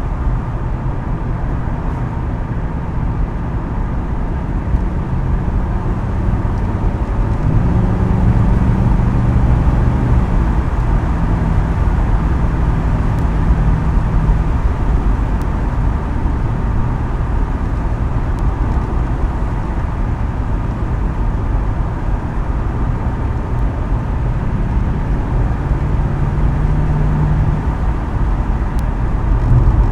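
2010 Ford Crown Victoria Police Interceptor's 4.6-litre V8 running through its custom quad-tip exhaust while driving. The engine note rises and pulls harder for several seconds about a quarter of the way in, and again near the end.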